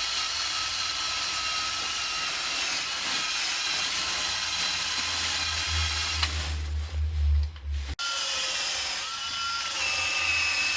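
A handheld power tool, drill-like, runs steadily with a high whine that wavers slightly in pitch. Low thumps and rumble come in the middle, and the sound breaks off briefly about eight seconds in before carrying on.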